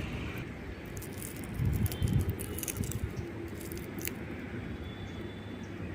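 Handling noise from dry gongura stems and seed pods being moved about: scattered light clicks and rustles, with a few dull knocks about two seconds in.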